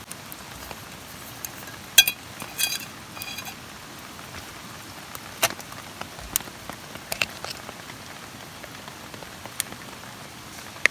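Rain pattering steadily on a camping tarp, with scattered single drops ticking on it. A few sharper, ringing clicks come about two to three seconds in.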